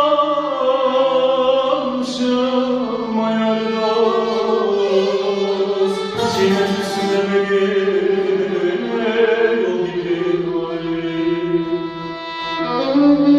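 Turkish folk song: a singer holds long, slowly bending notes without words, a drawn-out melisma, over a plucked and bowed string accompaniment.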